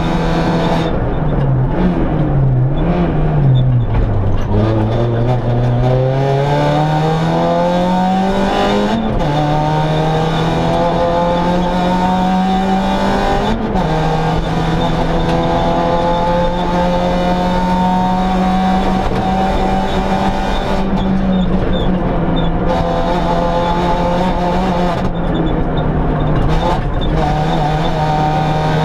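Citroën C2 rally car's four-cylinder engine, heard from inside the cabin while driven hard. The revs dip and bounce over the first few seconds, then climb steadily through a gear. They drop with an upshift about nine seconds in, shift again briefly near fourteen seconds, and stay high afterwards.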